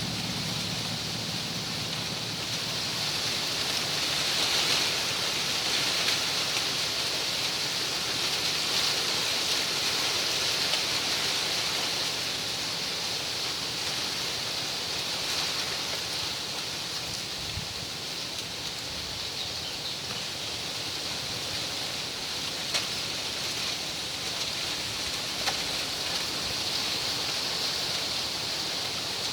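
Wind rustling the fronds of palmyra palms: a steady hiss that swells and eases with the gusts.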